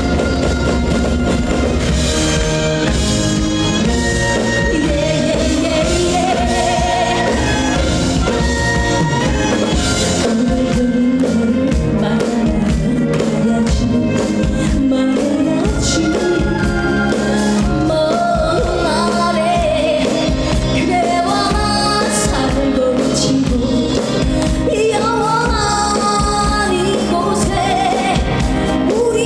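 A woman singing a trot song live with vibrato, over loud amplified backing music with a steady beat.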